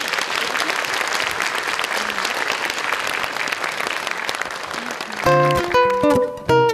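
Audience applauding, then about five seconds in a guitar starts playing the opening notes of a song.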